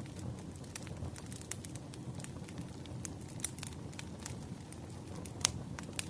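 Wood fire burning with a low steady rumble and irregular sharp crackles and pops, the loudest pop about five and a half seconds in.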